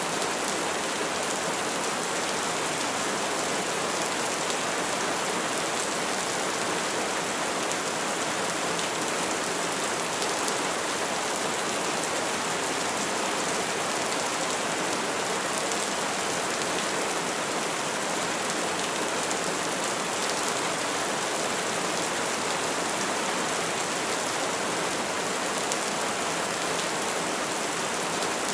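Steady rain falling, an even hiss of many drops that holds at a constant level throughout.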